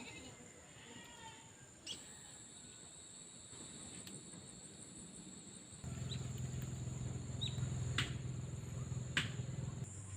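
Insects chirring in a steady, high-pitched drone. About six seconds in a low steady hum joins it, with a few sharp clicks near the end.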